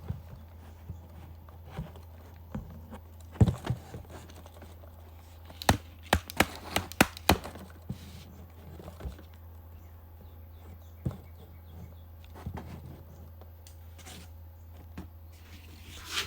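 Handling noise as objects are moved and set down: scattered knocks and clicks, one sharp knock about three and a half seconds in and a quick run of clicks around six to seven seconds in. A steady low hum runs underneath.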